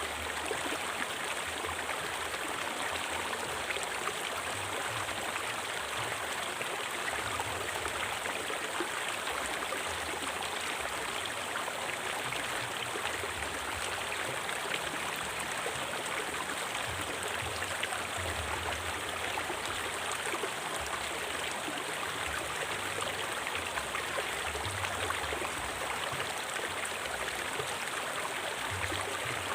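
River water flowing steadily over rocks, a constant rushing with low rumbling underneath.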